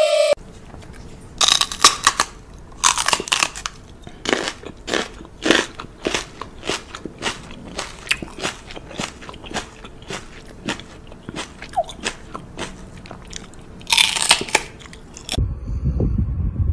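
Crunchy chewing close to the microphone: a long run of irregular crunches and crackles, a few a second, louder about two seconds in and again near the end. About a second before the end it gives way to a low hum.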